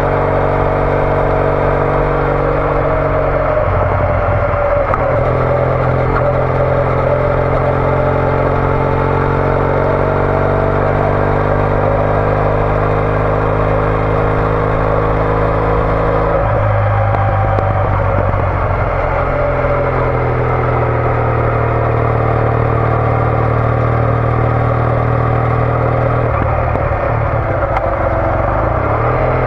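Triumph Bonneville T214's air-cooled parallel-twin engine running through a TOGA aftermarket exhaust while riding on the road. The engine note is steady, but three times, about 4, 17 and 27 seconds in, it breaks up and settles again at a new pitch.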